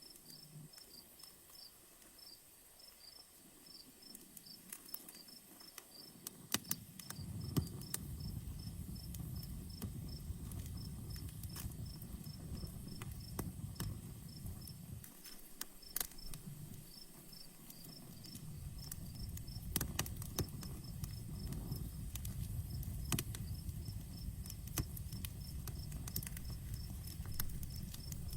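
Campfire crackling with scattered sharp pops, over crickets chirping in a steady rapid pattern. A low rumble comes in about a quarter of the way through, drops away briefly just past the halfway mark, then returns.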